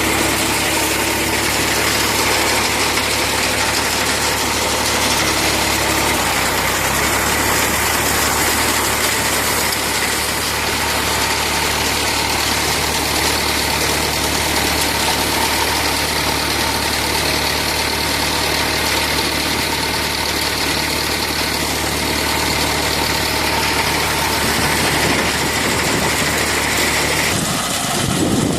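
Tractor engine running steadily, with a dense mechanical noise over its low hum. The sound changes abruptly about 27 seconds in.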